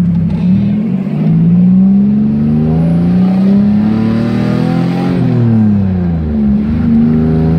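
Turbocharged Nissan VQ35 V6 engine and exhaust heard from inside the car. The engine note rises steadily under acceleration for about four seconds, then falls back and settles to a steady drone near the end.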